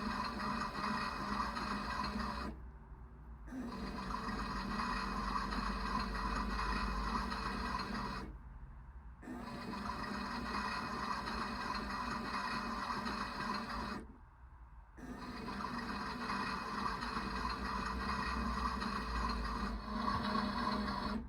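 Small electric motor of a toy washing machine running with a steady hum, stopping for about a second three times at even intervals of about six seconds, then starting again.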